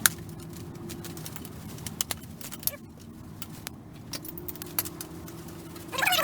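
Scattered metallic clicks and clinks from a socket wrench working the cylinder-head bolts on a Suzuki Vinson 500 ATV engine, over a faint steady hum. Near the end comes a louder burst of short chirping calls.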